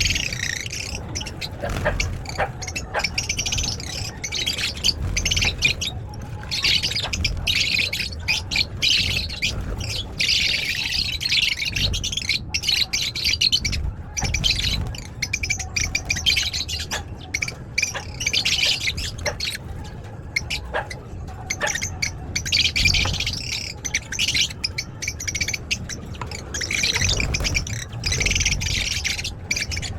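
A flock of lovebirds in a flight cage chattering and squawking continuously, many high-pitched calls overlapping, over a low rumble.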